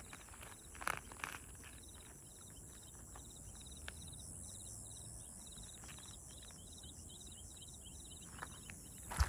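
Night insects chirping: a constant high hiss with rows of short, rapid high chirps. A couple of brief rustles come about a second in, and a louder knock comes at the very end.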